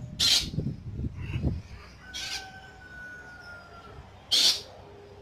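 Birds calling: short harsh squawks about every two seconds, and one long call near the middle that falls slightly in pitch.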